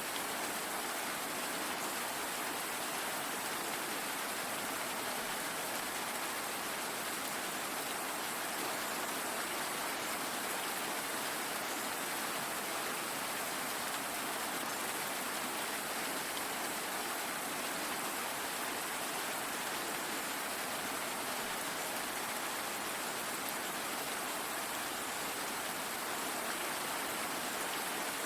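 Steady, even rain falling, a continuous hiss with no distinct drops or breaks.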